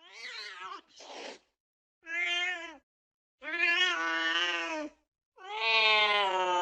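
A cat yowling: a short wavering call, a brief breathy burst, then three drawn-out meows, each longer than the one before, the last held on without a break.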